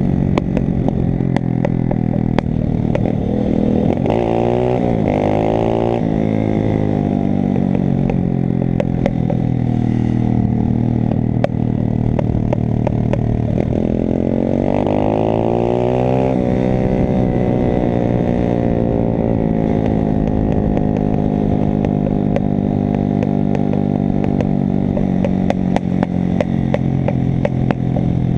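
A 125 cc pit bike's single-cylinder engine running hard, with its pitch rising and falling twice as it is revved up and backed off. Frequent short clicks and clatter run over it.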